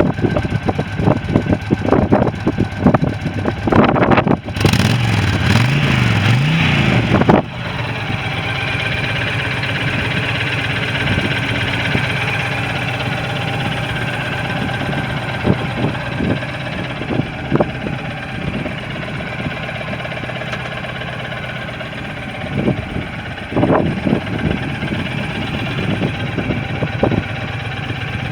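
2007 Honda VTX1300R's V-twin engine running: for the first few seconds it is revved up and down, then it drops to a steady idle about a quarter of the way in. There is a brief throttle blip near the end.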